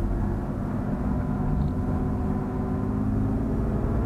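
BMW E46 328i's 2.8-litre straight-six running steadily at low revs as the car rolls slowly, heard inside the cabin.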